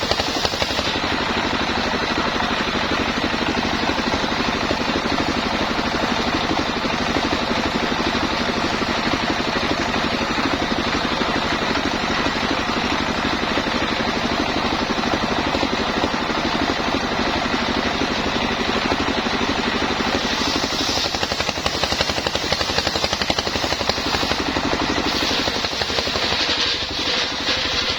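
Homemade sawmill's engine running steadily.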